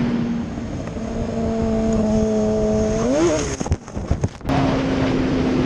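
A vehicle engine running at a steady pitch, rising as it revs up about three seconds in, then a brief drop with a few clicks before another engine holds a steady note.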